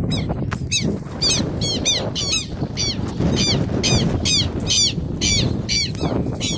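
A bird calling over and over: loud, harsh, sharp calls repeated about three times a second.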